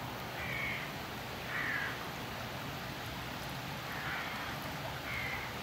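A bird calling four times, short harsh calls spaced irregularly, over a steady background hiss.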